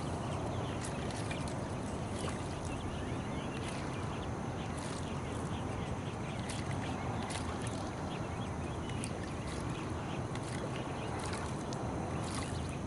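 Quiet open-water ambience from a kayak: a steady low hiss with faint scattered ticks and short chirps.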